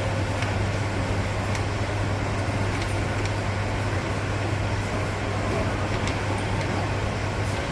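Busy railway station ambience: a steady low hum under a rough wash of noise and a few faint clicks. The hum cuts off suddenly near the end.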